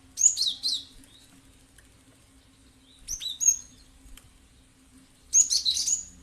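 Cinereous tit (gelatik batu) calling: three short bursts of sharp, high, quickly falling notes, one near the start, one about three seconds in and one near the end.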